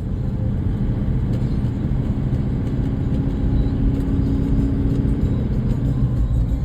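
Steady low rumble of a vehicle in motion, engine and road noise, with a faint hum that comes in for a couple of seconds midway.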